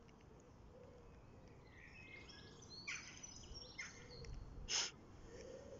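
Faint birds chirping, a run of short high calls starting about two seconds in, over a low steady outdoor background. A single brief, sharp noise stands out near the end as the loudest sound.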